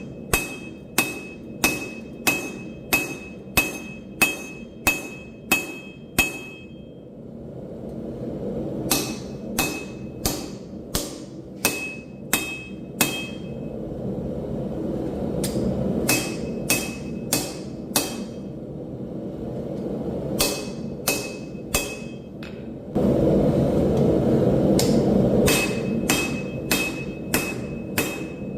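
Hammer forging steel on an anvil: runs of hammer blows at about two a second, each leaving a high ringing tone, broken by pauses. Between the runs a steady rushing noise swells, coming in suddenly and loudest near the end before the hammering resumes.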